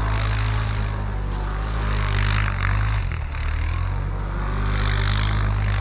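Snowmobile engine running steadily under way, with a steady hiss over it. The engine note dips and shifts briefly about three seconds in, then settles again.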